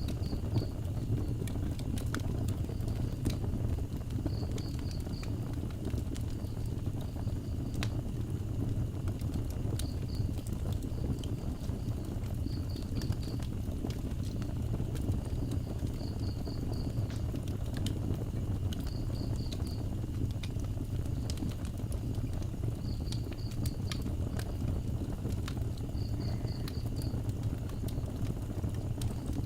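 Wood fire burning with a steady low rumble and scattered crackles and pops. An insect chirps high above it in short groups of three or four pulses, every few seconds.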